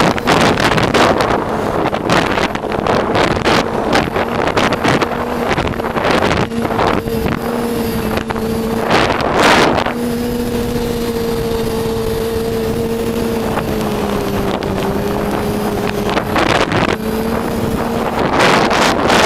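Yamaha Attak snowmobile's four-stroke four-cylinder engine running at a fairly steady pitch under way through an aftermarket Excell exhaust. The engine note drops a little about fourteen seconds in, then comes back. Wind buffets the microphone throughout.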